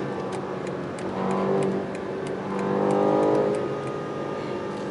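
The BMW M8 Competition's 4.4-litre twin-turbo V8 heard from inside the cabin at speed, a steady drone that swells twice in pitch and loudness. Faint light clicks are scattered through it.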